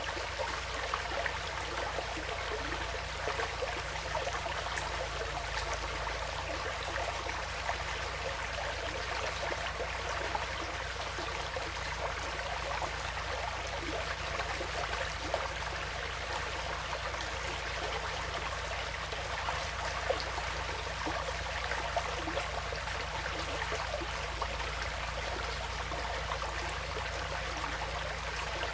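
Woodland stream flowing steadily: a continuous rush of running water, flecked with small splashes.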